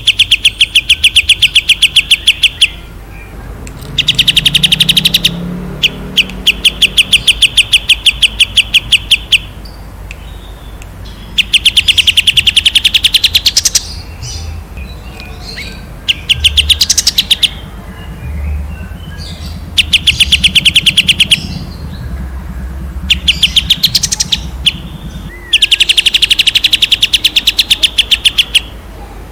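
A songbird singing in about eight bursts of fast, evenly repeated sharp notes, around ten a second, each burst lasting one to four seconds. These are the long, clear 'tembakan' (shot) trills sought in Indonesian masteran song recordings.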